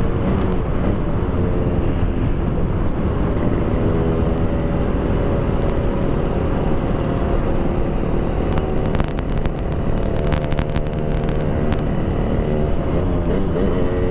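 Yamaha RX-King's 135cc two-stroke single running through an aftermarket PDK exhaust while being ridden. The engine note rises and falls in pitch with the throttle, and there is a run of sharp crackles about two-thirds of the way through.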